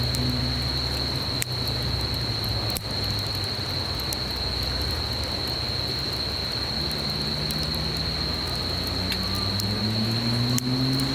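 Wood campfire crackling with scattered sharp pops over the steady rush of a stream, with an insect's continuous high-pitched trill. In the second half a low engine drone rises slowly in pitch.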